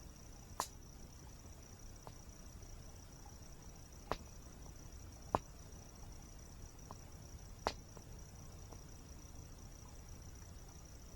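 Wood campfire crackling, with four sharp pops and a few fainter ticks, over a steady high-pitched insect trill and the low rush of a waterfall.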